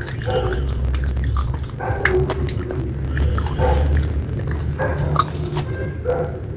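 Close-miked chewing of wet red clay paste: sticky, wet mouth clicks and soft crunching. A metal spoon scoops more paste from the container and goes into the mouth near the end.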